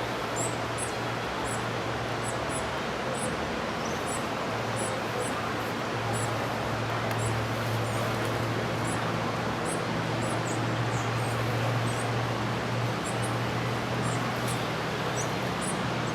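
Short, high-pitched bird chirps repeating irregularly, over a steady hiss and low hum.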